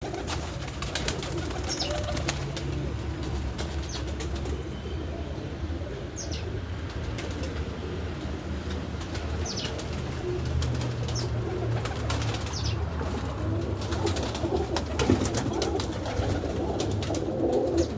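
Domestic pigeons cooing in a loft, with wings flapping and many sharp clicks throughout, and a few short high chirps.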